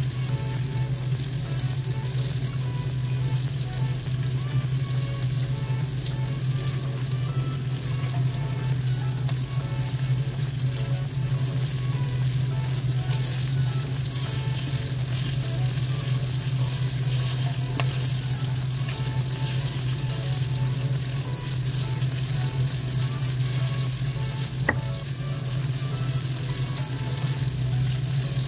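Cornstarch-coated pork pieces deep-frying in hot oil in a wok on a low flame, a steady even sizzle, over a constant low hum.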